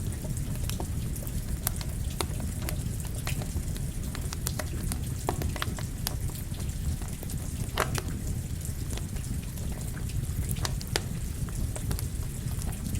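Campfire crackling with irregular sharp pops, over a steady hiss of rain.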